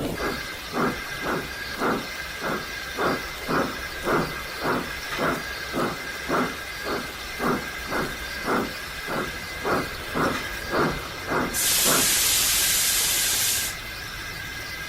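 Steam locomotive chuffing steadily at about two exhaust beats a second, then a burst of steam hiss for about two seconds near the end, over a faint steady high tone.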